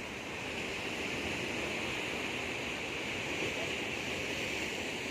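Sea waves washing onto the shore: a steady rush of surf that swells a little and then eases.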